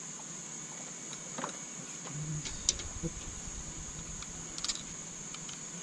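A few scattered sharp metallic clicks and knocks of hand tools working on an engine, over a steady high hiss.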